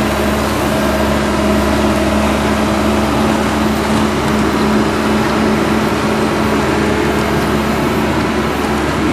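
An engine running steadily at an even speed, a constant hum over a noisy rumble.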